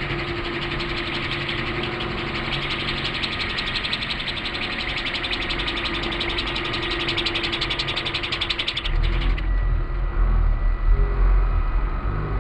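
Electric-powered giant-scale RC Bell UH-1 Huey helicopter flying: fast rotor blade chop with a steady whine from the motor and gears. About nine seconds in the sound changes to a heavy, deep rumble with the whine fading.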